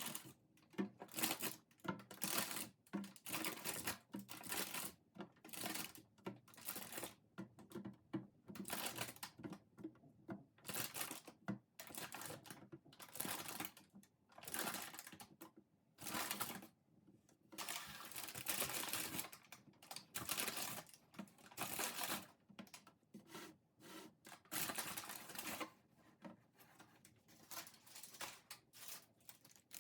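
Irregular short bursts of rustling and crinkling handling noise, one after another with brief gaps.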